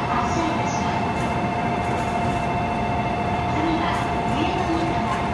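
E4 series Max Shinkansen standing at the platform, its onboard equipment giving a steady hum with two held tones, over constant station noise.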